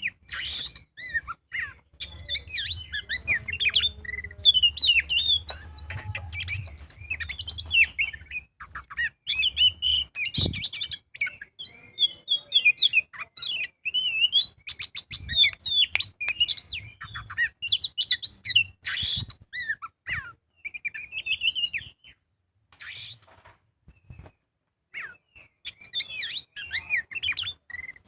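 Oriental magpie-robin (kacer) singing a long, rapid, varied song of whistled phrases mixed with harsh chattering notes, breaking off briefly a couple of times near the end.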